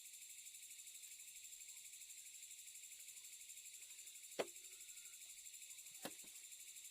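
Steady high chirring of night insects, with two short sharp clicks about a second and a half apart, the first near the middle.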